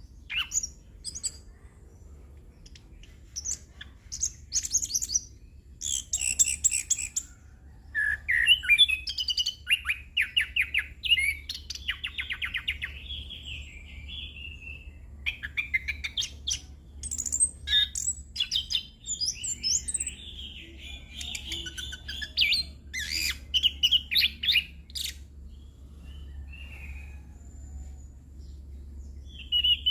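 Orange-headed thrush singing a long, varied rolling song of quick changing phrases and rapid trills, with short pauses between bursts. A steady low hum runs underneath.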